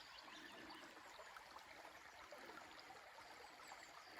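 Near silence, with a faint steady stream running.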